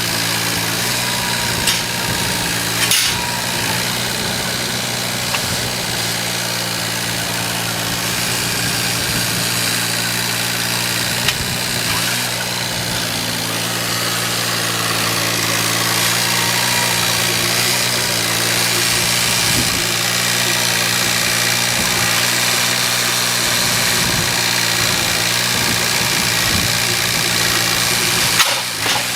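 An engine running at a steady idle, with a few short knocks over it.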